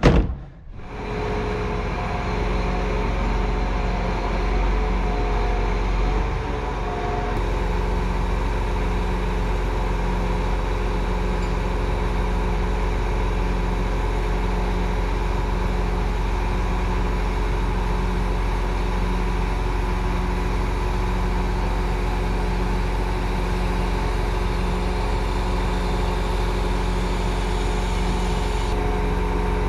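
An engine idling steadily, with an even low hum and no change in speed. It starts about a second in, after a sudden edge.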